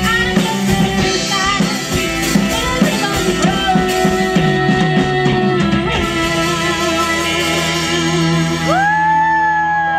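Live rock band with guitars, drum kit and singing. The drum hits stop about six seconds in and the band holds a sustained chord, and near the end a voice slides up into a long held note.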